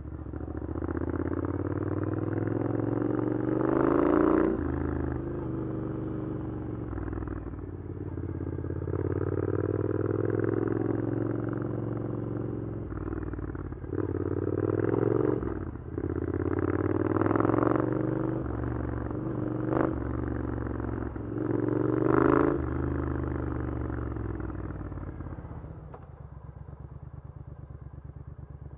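Triumph Scrambler 900's parallel-twin engine through an Arrow exhaust, repeatedly accelerating through the revs and easing off in city riding, with a few sharp louder revs. Near the end it drops to a steady idle.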